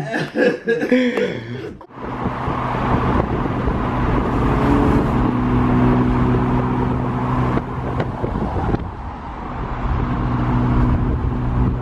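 Car engine running with a steady low drone and road noise, starting abruptly about two seconds in, its pitch shifting slightly partway through.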